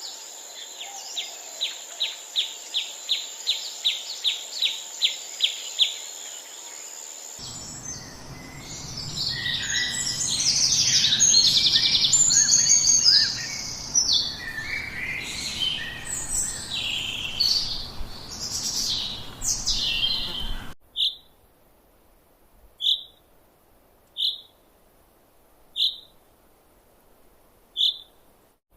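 Birds chirping in three spliced recordings: first a bird repeating a short high note about three times a second over a steady high hiss, then a dense chorus of many overlapping chirps and trills with a low rumble beneath, which cuts off suddenly about two-thirds of the way through, leaving a single bird giving one short chirp about every second and a half.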